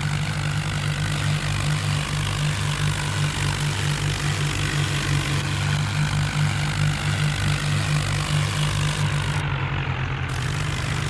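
Vehicle engine running steadily, a low, even engine note with no change in speed.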